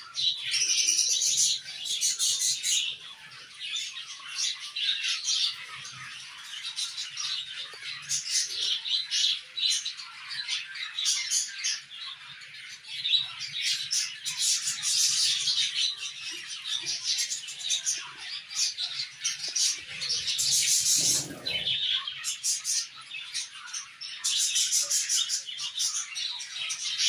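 Small cage birds chirping and chattering, many high calls overlapping with no break, the chatter swelling and easing every few seconds.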